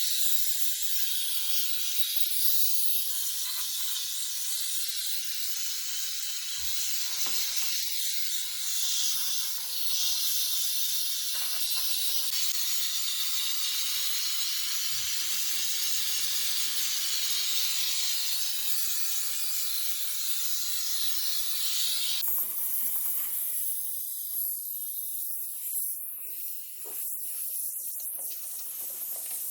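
Steady high hiss of a pressurised jet working over a car engine bay, shifting about two-thirds of the way through and turning to short uneven spurts near the end.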